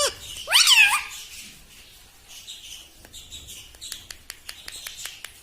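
Pet parrot calling: one loud call about half a second in that swoops down and back up in pitch, followed by soft high chattering and a run of quick clicks.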